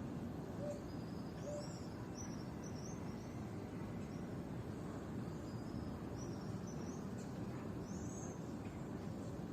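Birds calling over steady low background noise: a short low note repeats about once a second during the first second and a half, then high chirps come in runs until near the end.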